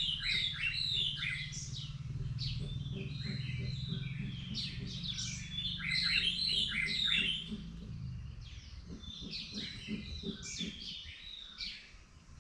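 Small birds chirping in quick, overlapping short calls, with a low steady rumble underneath that fades about eight seconds in.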